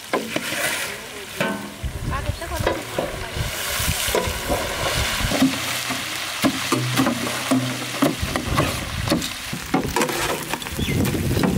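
Fish heads sizzling as they fry in hot oil in a large steel pan, with a metal spatula repeatedly scraping and stirring them against the pan.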